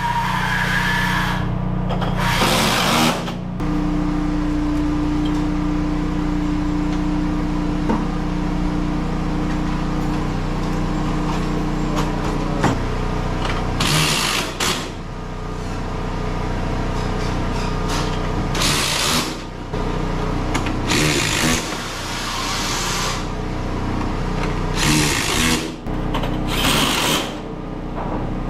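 A power tool running in short bursts, about six over the stretch, each a second or two long, over a steady low machine hum.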